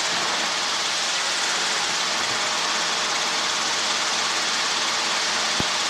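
Steady hiss on the helicopter's cockpit radio audio feed between transmissions, even and unchanging, with no voices.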